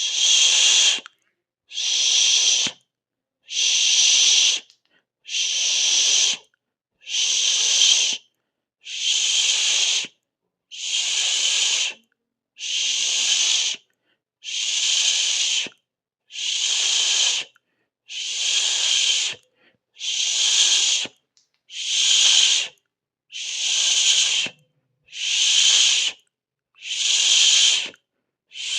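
A person hissing through the teeth, a 'sss'/'shh' sound, in short even bursts about a second long, one roughly every second and a half to two seconds, with silence between them.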